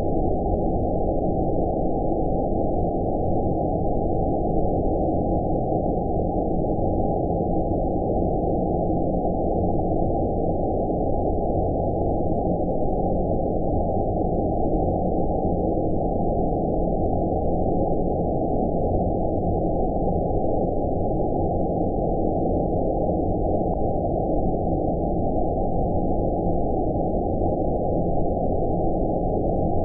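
Steady low rumbling noise with nothing above a deep, muffled range: synthetic 'outer space' sleep noise, like a distant engine hum.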